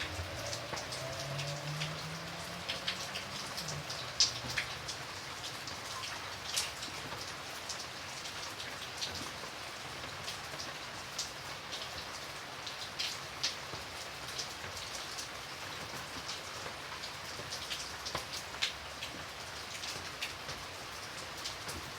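Steady rain falling, with many individual drops tapping sharply and irregularly close by.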